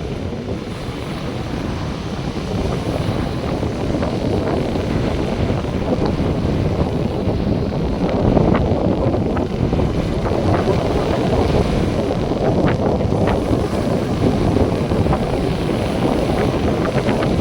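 Wind buffeting the microphone over the steady wash of North Sea surf, growing a little stronger a few seconds in.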